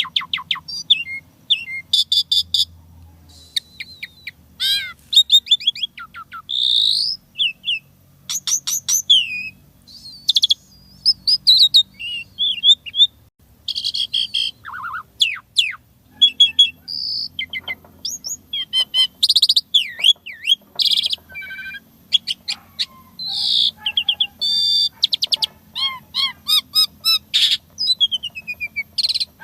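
Asian pied starling (jalak suren) singing a long, rapid, varied song of chirps, rising and falling whistles and rattling clicks, phrase after phrase with short pauses. This is the mimicry-rich 'isian' style prized by starling keepers.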